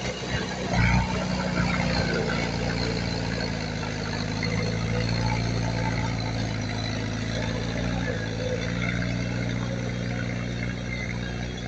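Heavy diesel engine of earthmoving machinery running steadily at low revs, with a short knock about a second in.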